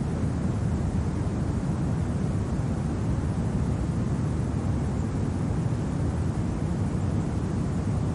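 Winter wind blowing steadily, a low, even rumble with no gusts or separate sounds standing out.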